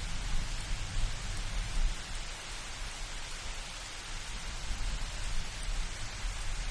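Steady rain hiss with a low thunder rumble under it that eases off after about two seconds and builds again near the end.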